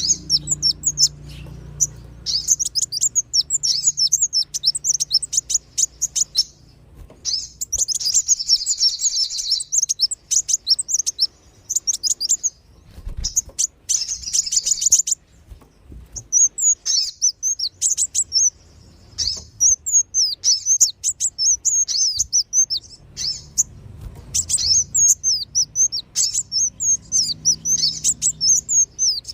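Bird-lure recording of kolibri wulung (a sunbird) and sogon (spiderhunter) calls: rapid, high-pitched chirping in bursts of a few seconds with short breaks.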